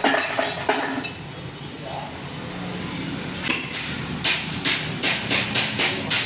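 Hammer tapping metal as the shafts and bearings are knocked into a truck gearbox housing. A few clinks come near the start, then a run of quick taps, about three a second, from about halfway through.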